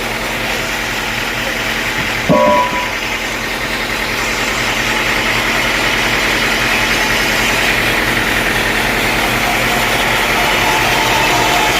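Sawmill engine running steadily, with a brief loud squeal a little over two seconds in. From about four seconds in the sound grows louder and noisier, leading into the saw cutting wood.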